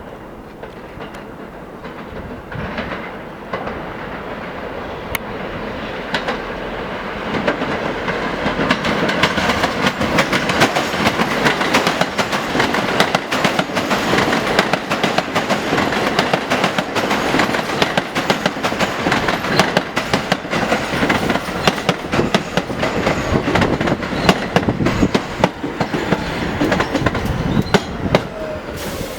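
Pullman Standard R46 subway train running along the track, its sound building over the first several seconds into a steady clickety-clack of wheels over rail joints. A falling whine comes in near the end.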